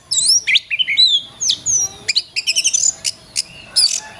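Oriental magpie-robin (kacer) singing a fast, varied song of loud whistles, quick rising and falling sweeps and short trills, phrase after phrase with brief gaps.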